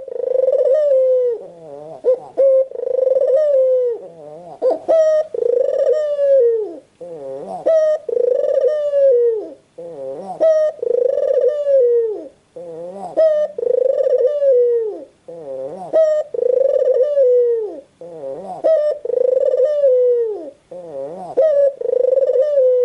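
White Barbary dove (puter putih) cooing: a rolling, falling coo repeated about every two and a half seconds.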